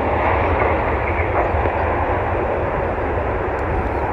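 Jet airliner engine noise: a loud, steady rumble with a broad rushing hiss.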